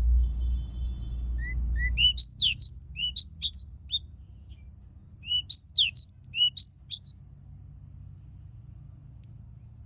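Pied bushchat (decu) singing two short phrases of quick, sliding whistled notes, a bird practising its full song. A low rumble underneath fades out as the first phrase begins.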